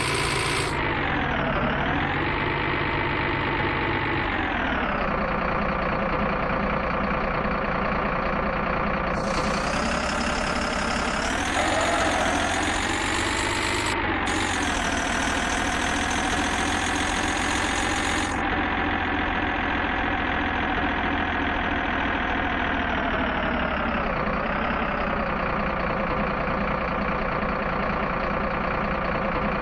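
Truck engine running steadily, its pitch dipping and recovering a few times as the revs change.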